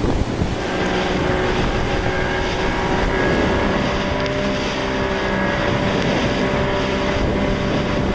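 A motorboat's engine running steadily, its drone mixed with wind noise on the microphone and the rush of water.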